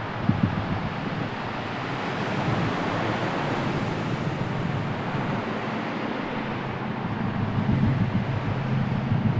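Sea waves washing in, one wash swelling and easing off through the middle, with wind gusting on the microphone near the start and again near the end.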